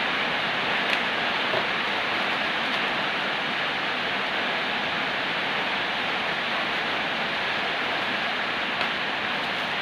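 Steady, even hiss with a few faint small clicks over it.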